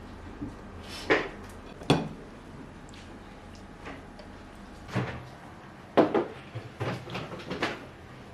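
A series of separate knocks and clinks, about eight in all, as household objects, likely dishes or utensils, are handled and set down, with several coming close together near the end.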